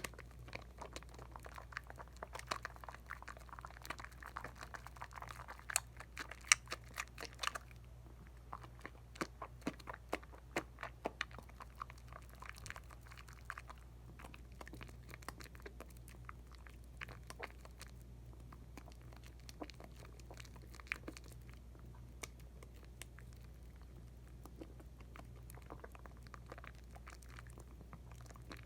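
Wet Dial coconut soap lather crackling and squishing, with dense little pops of bursting bubbles that come thickest in the first few seconds, over a faint steady low hum.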